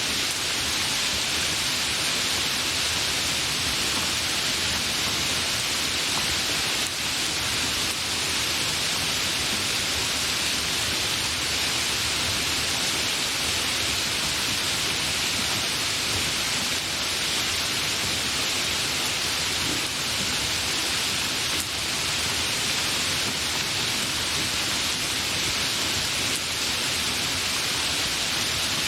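Steady, fairly heavy rain with no thunder: an even, unbroken hiss of falling drops.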